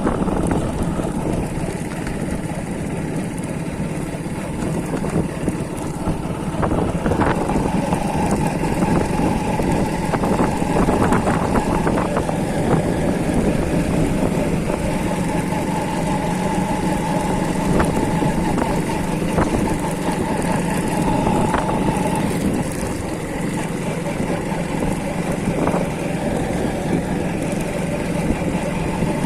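Motorcycle engine running steadily during a ride, a constant engine drone over road noise.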